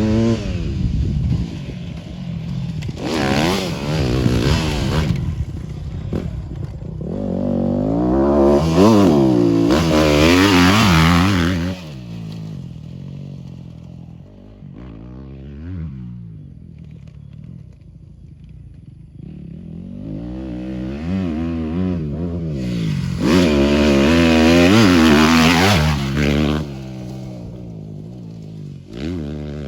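Dirt-track motorcycles riding a flat-track course, their engines revving up and down in pitch as they accelerate and back off. They grow loud and fade away several times.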